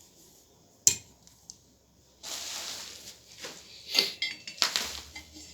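A metal motorcycle racing exhaust being handled: a sharp click about a second in, a rustling scrape, then metallic knocks and clinks near the end.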